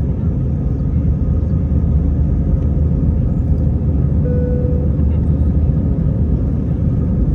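Steady low rumble of an airliner's engines and airflow heard from inside the passenger cabin during the takeoff climb. A short faint tone sounds about four seconds in.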